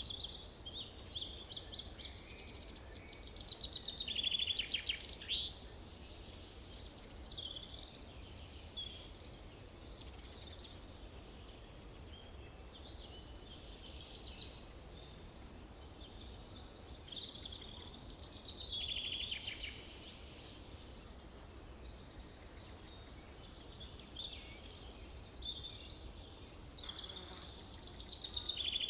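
Forest birds singing: many overlapping chirps, short trills and sweeping phrases, with a few louder trilling songs about four seconds in, near the middle and near the end. A steady low rumble runs beneath.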